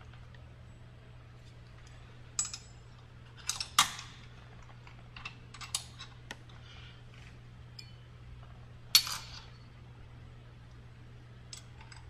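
Scattered sharp metallic clinks and taps of bolts and hand tools being handled as the guards are refitted on a StairMaster SC916 stair climber. The two loudest come about four seconds in and about nine seconds in, over a steady low hum.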